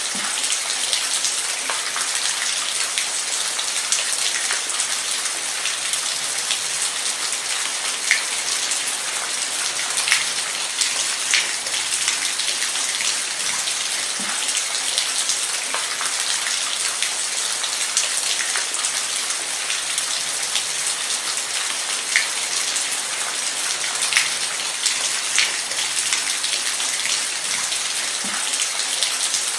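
Steady rain falling on a surface, a continuous hiss dotted with individual drop splashes.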